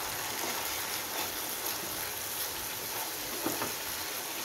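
Thick butter chicken masala gravy sizzling and bubbling in a pan over a high gas flame, its oil separated out, while a wooden spatula stirs it, with a light tap about three and a half seconds in.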